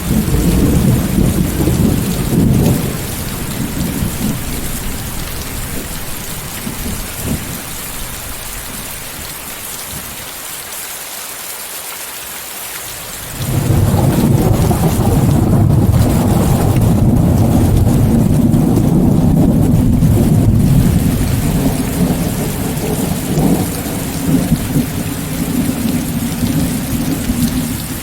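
Thunderstorm: steady heavy rain hiss under rolling thunder. A low rumble dies away over the first half, then a loud new peal breaks in suddenly about halfway through and keeps rumbling to the end.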